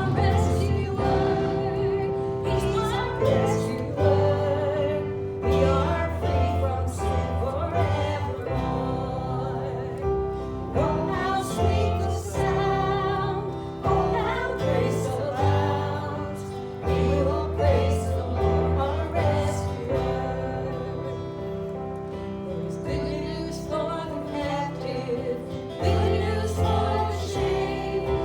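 Worship song: voices singing over instrumental accompaniment with a held organ-like tone and a pulsing bass line.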